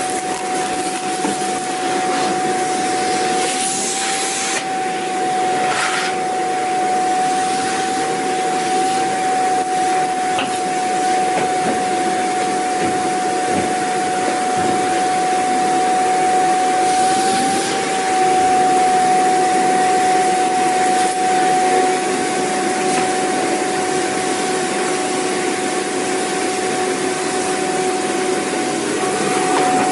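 Vacuum cleaner running steadily: a constant motor whine over a dense rushing hiss, with a few brief swells of higher hiss.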